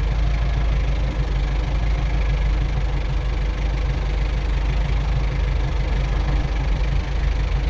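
Tractor engine at idle in fourth gear, lugging steadily under load and almost stalling as the tractor inches forward on slippery snow.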